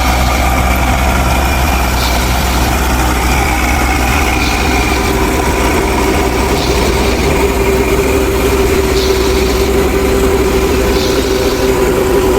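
Engine running steadily, with a steady whine that grows stronger about halfway through.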